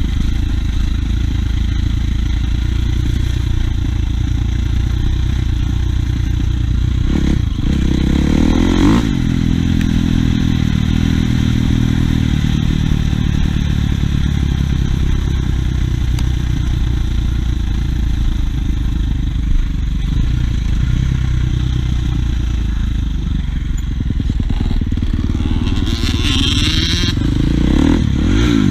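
Dirt bike engine running as it is ridden, its revs climbing about eight seconds in and again near the end.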